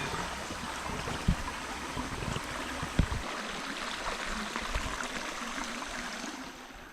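Stream water running and splashing in a steady rush that fades somewhat near the end, with two short low thumps about one and three seconds in.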